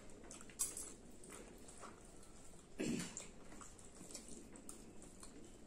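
Close-up eating sounds of people chewing with their mouths, with soft scattered clicks and one louder wet mouth sound about three seconds in.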